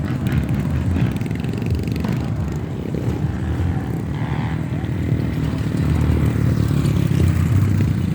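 Off-road motorcycle engine running, getting a little louder in the second half.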